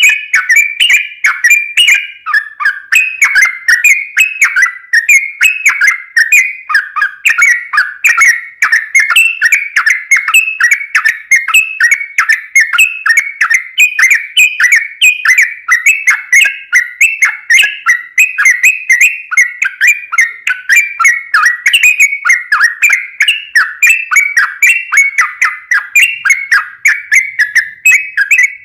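Yellow-vented bulbul (trucukan) singing without pause: short, chirping whistled notes in quick succession, several a second.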